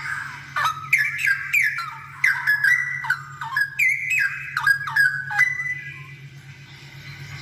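Straw-headed bulbul (cucak rowo) singing a loud, rapid run of rich whistled notes, many sliding downward, for about five seconds before trailing off into softer notes.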